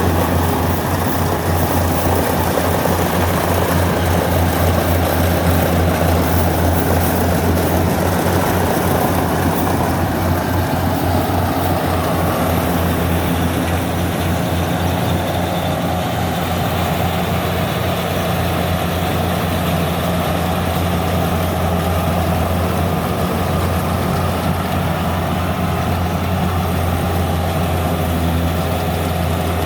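Yanmar 70V rice combine harvester's diesel engine and machinery running steadily while it harvests rice, a loud, constant low hum.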